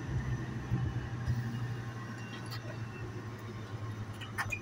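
Metrolink commuter train rolling slowly to a stop alongside the platform, with a steady low rumble and a few sharp clicks near the end.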